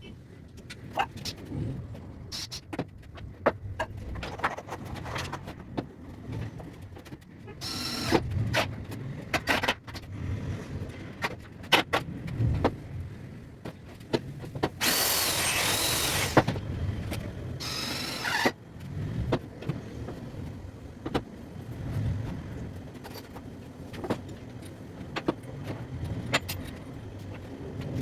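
Workshop work sounds: scattered knocks and clatter of handling wood and tools. A power tool runs briefly about halfway through for a second and a half, with shorter runs before and after.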